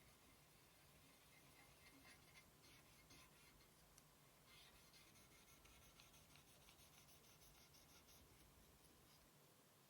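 Very faint scratchy scrubbing in quick short strokes, as the PS4 Slim's heatsink is cleaned.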